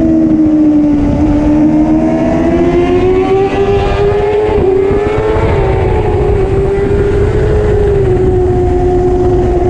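Superbike engine running at steady high revs, its pitch climbing a little midway and easing back down, over a steady rush of wind noise.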